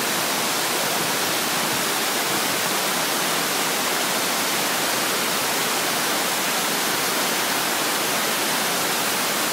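Mossbrae Falls pouring: a steady, even rush of falling water.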